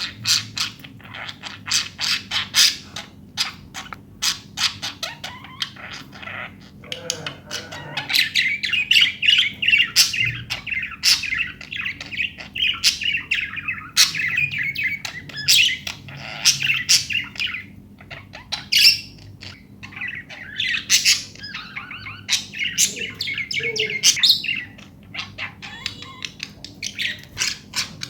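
Pet budgerigars chirping, with many short sharp chirps and two long stretches of continuous warbling chatter in the middle.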